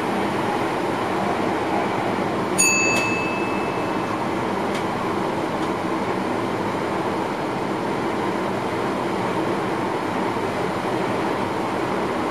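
Steady running noise of a train as heard inside the driver's cab, with one short high chime about two and a half seconds in that rings out for about a second.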